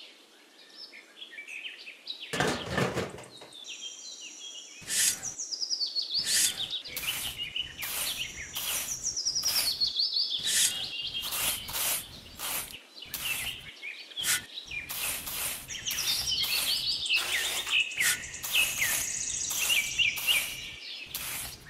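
Small birds chirping in a steady stream, over a series of short scrapes and taps from a miniature trowel working sand around a plastic tray.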